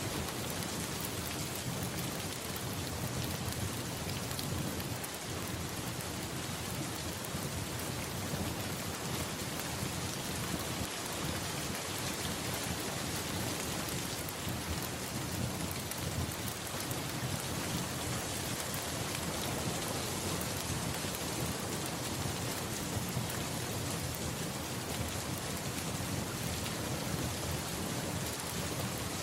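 Steady rain falling, an even hiss that does not rise or fall.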